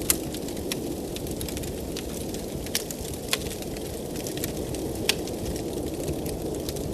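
Wood fire crackling in a fireplace: irregular sharp pops and snaps, the loudest right at the start and about 5 seconds in. Under them runs a steady low rush of fire and blizzard wind.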